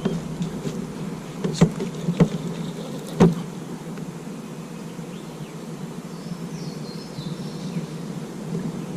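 Three sharp knocks of gear against a fishing kayak, about one and a half, two and three seconds in, the last the loudest, over a steady low hum, while a hooked fish is played from the kayak.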